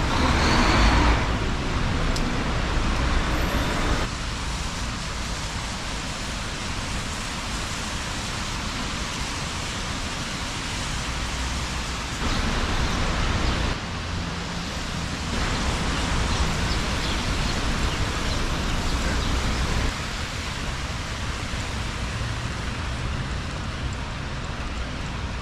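Rain and city traffic on wet streets: a steady hiss with tyres swishing on wet road, louder for a few seconds at a time.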